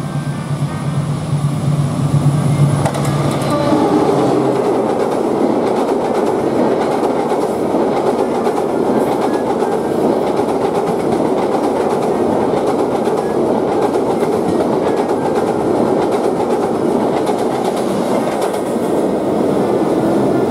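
Passenger train passing close by, hauled by a diesel-electric locomotive: a steady low engine hum for the first few seconds as the locomotive goes by, then a continuous loud rumble and clatter of the coaches' wheels on the rails.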